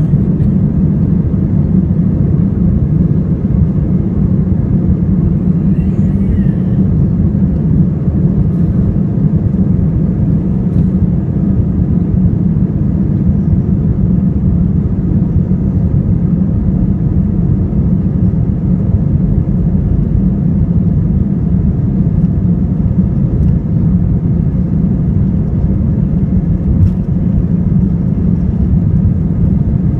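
Steady loud roar of an Airbus A320's jet engines and rushing air, heard from inside the passenger cabin during the climb after takeoff.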